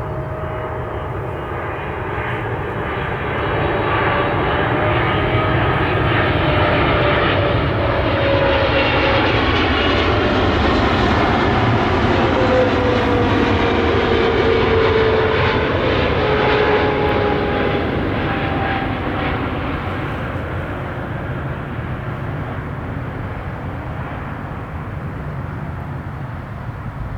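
Boeing 747's four jet engines passing by on landing. The noise swells, peaks about halfway through and fades, with whining tones sliding down in pitch as the aircraft goes past.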